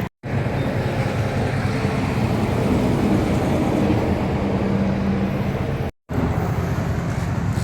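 Diesel being pumped into a John Deere 50P mini excavator's fuel tank: a steady pump hum with rushing fuel. The sound cuts out for a moment twice.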